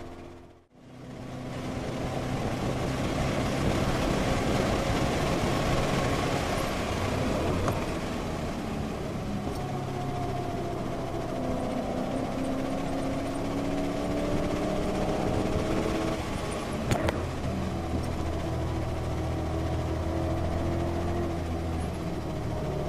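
Ford Mustang's engine running at speed on a race track, with tyre and road noise. The engine's pitch rises and falls with the revs through the lap. The sound dips away briefly just after the start and comes back, and there is a single sharp knock about seventeen seconds in.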